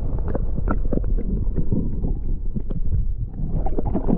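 Wind rumbling on the microphone while the angler handles things on a kayak on the water, with frequent short irregular knocks and slaps.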